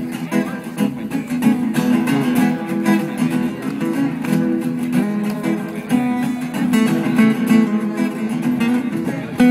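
Acoustic guitar strummed in a steady rhythm: an instrumental passage of a live solo song, without vocals.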